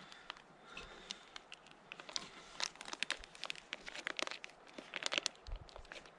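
Irregular crinkling and clicking of a mac-and-cheese sauce packet being handled and squeezed out.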